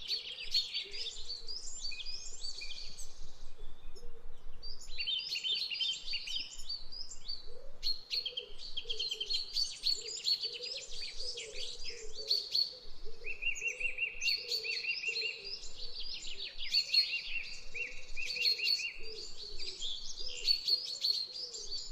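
Several small birds chirping and chattering in a dense, continuous chorus of quick high trills, with a run of rapidly repeated notes in the middle.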